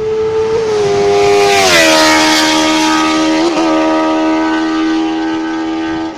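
Benelli TNT 600's inline-four engine running at high revs through an SC Project exhaust, a high steady wail that drops in pitch about two seconds in, at its loudest there, then holds at the lower pitch.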